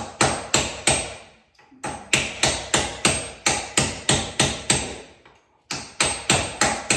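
Hammer tapping on a punch to drive a hinge pin out, quick even strikes about three a second in runs broken by two short pauses.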